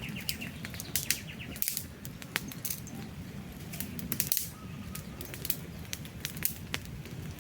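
Wood campfire crackling, with irregular sharp pops and snaps over the low rumble of burning logs. A bird's rapid trill ends just after the start.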